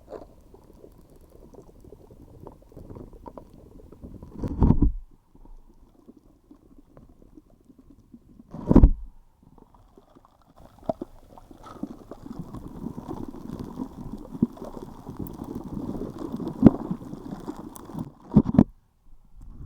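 Slime being squished and kneaded close to the microphone: wet squelching that gets busier in the second half, with a few louder low pops of trapped air, about 4.5, 9 and 18.5 seconds in.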